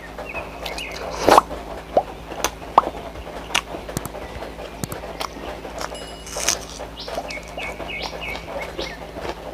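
Close-miked eating sounds from a person chewing chole bhature: wet chewing, lip-smacking and mouth clicks at an irregular pace, the loudest smack a little over a second in.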